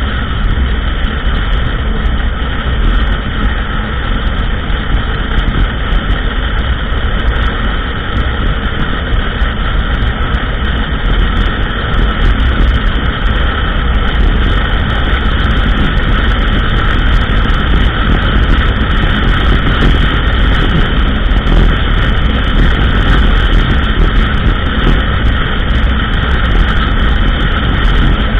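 ATV engine running steadily while the quad is ridden along a trail: a loud, continuous rumble with no breaks or changes in pace.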